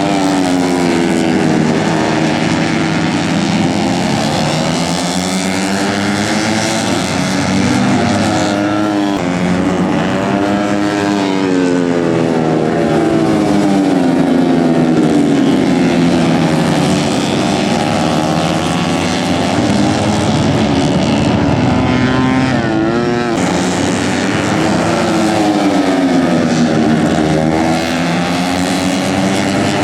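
Several tuned 130 cc four-stroke underbone race motorcycles run hard at once, their engines revving up and down through the gears. The pitch of the bikes rises and falls as they pass one after another.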